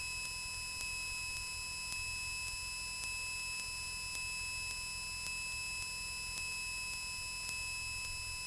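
Steady high-pitched electrical whine of several fixed tones in the cockpit intercom audio, over a faint low hum.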